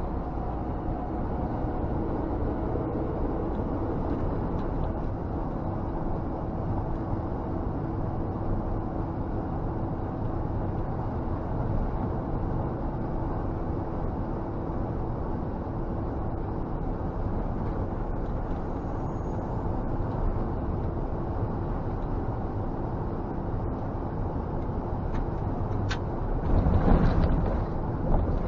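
Scania G460 truck's inline-six diesel running under way, heard from inside the cab with steady engine hum and road noise. Near the end a brief sharp sound is followed by a louder rush lasting about a second.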